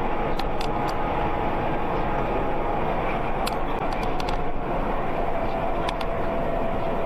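Steady road and engine noise of a car driving, picked up by a dashcam, with a faint steady whine that dips slightly in pitch near the end and a few light ticks.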